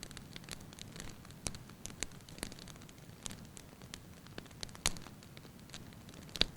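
Wood logs burning in a fireplace: a low steady hiss of the flames with irregular sharp crackles and pops, the two loudest a little before five seconds in and near the end.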